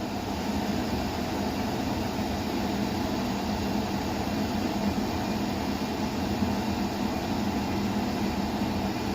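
KitchenAid KPH-20 dehumidifier running: a steady fan whoosh with a constant low hum from its compressor.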